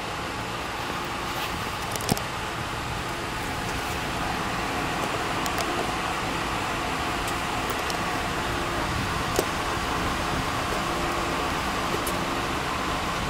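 Ford Crown Victoria Police Interceptor's 4.6-litre V8 idling steadily, with a car door shutting about two seconds in.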